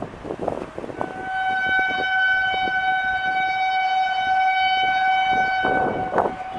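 Indian Railways locomotive horn sounding one long, steady blast of nearly five seconds, starting about a second in, as the Seshadri Express gathers speed.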